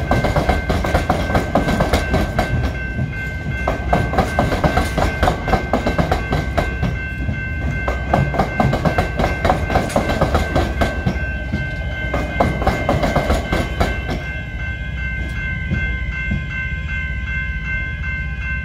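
Suburban electric trains rolling over the tram square, their wheels clattering hard over the diamond crossing with the tram tracks, while the level crossing bells keep ringing. The wheel clatter dies away about 14 seconds in, leaving only the crossing bells ringing in a steady repeating rhythm.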